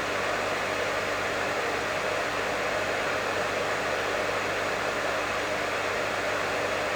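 Professional hair dryer running steadily: an even blowing hiss with a faint low hum beneath it.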